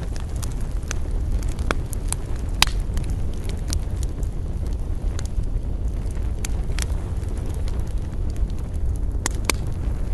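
Wood campfire crackling, with frequent sharp irregular pops and snaps over a steady low rumble of wind.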